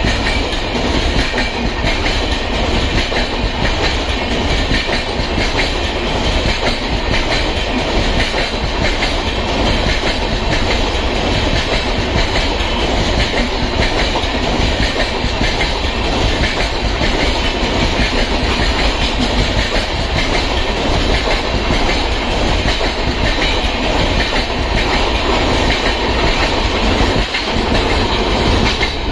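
LHB passenger coaches of an Indian Railways express passing close by at speed: a steady, loud rolling noise of wheels on rail, with a rapid run of clicks from the wheels crossing rail joints.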